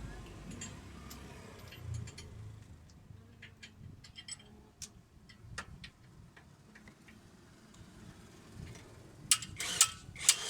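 Scattered light clicks and taps, with a few louder clicks about nine seconds in, over a faint low hum.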